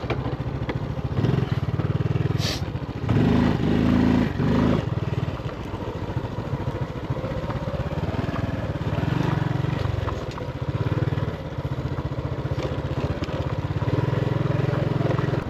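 Motorbike engine running as it is ridden, with a steady low hum. The engine note strengthens and shifts about three to five seconds in, and there is a single sharp click about two and a half seconds in.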